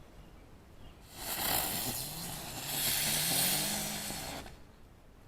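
Ground bloom flower firework spinning on the ground, hissing for about three and a half seconds from about a second in, with a low whine that rises in pitch as it spins up, then dying out.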